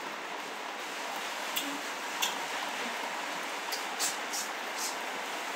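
Steady hiss of heavy rain, with a few light clicks scattered through it.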